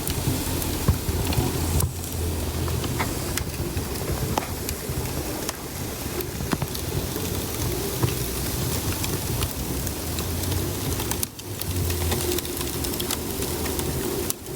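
Wood fire burning in a fireplace: frequent small crackles over a steady rushing noise.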